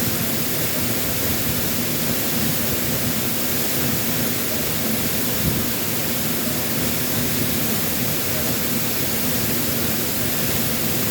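Waterfall after a typhoon: a steady, unbroken rush of falling water.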